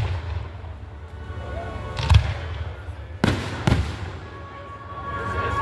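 Aerial fireworks shells bursting: a deep bang about two seconds in, then two more close together a little past three seconds, over a low rumble.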